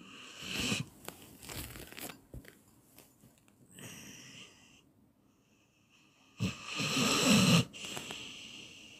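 A dog snoring: about four irregularly spaced, noisy snoring breaths. The longest and loudest comes about seven seconds in.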